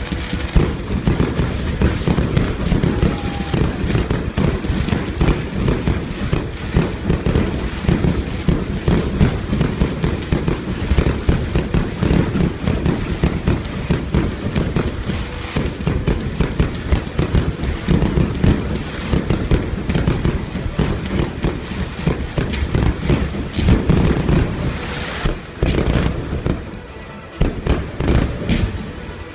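Fireworks display going off: a dense, continuous run of bangs and crackles, easing briefly near the end, with music playing underneath.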